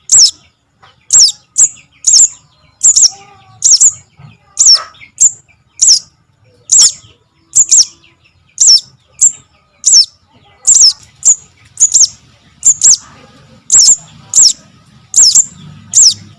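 Young sogon (sogok ontong) bird calling: loud, sharp, high chips that sweep down in pitch, repeated about twice a second, used as a lure call for trapping.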